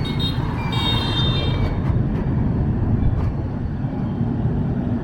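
Dense street traffic, a steady rumble of motorbike and vehicle engines, with a short high horn beep in the first couple of seconds.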